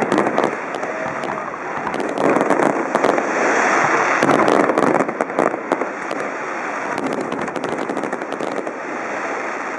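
Fireworks going off in a rapid, dense string of bangs and crackles, loudest about three to five seconds in.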